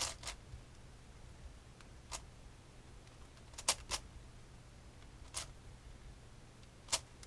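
Plastic clicks of a 7x7 Rubik's cube as its layers are turned: about six short, sharp clicks, irregularly spaced.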